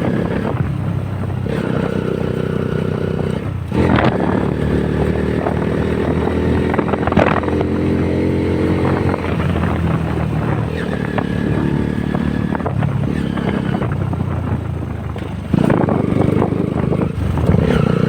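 Honda CBR150R's single-cylinder engine running steadily while riding, with brief louder surges about four seconds in and again near the end.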